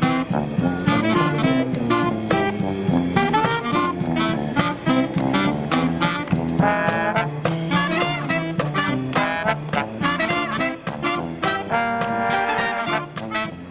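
Marching brass band playing live: trombones and trumpets over drums in a lively, fast-moving tune.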